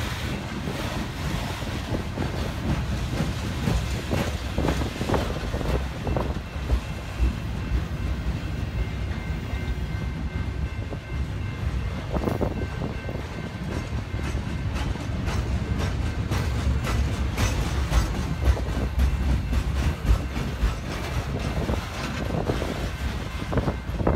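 A train rolling past at steady speed: a continuous low rumble with wheels clicking over the rail joints all the way through.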